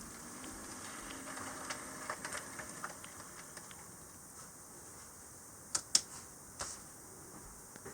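HO-scale model steam locomotive running on its track: light, irregular clicking of the wheels over the rails, with a faint motor hum in the first couple of seconds and two sharper clicks about six seconds in.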